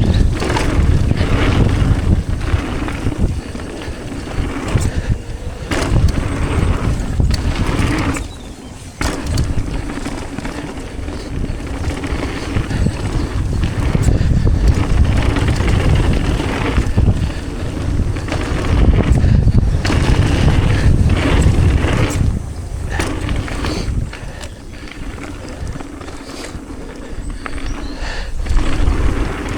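Mountain bike rolling fast down a dirt trail: tyres rumbling over the ground with frequent knocks and rattles from the bike, and heavy wind buffeting the microphone. The noise drops briefly about eight seconds in.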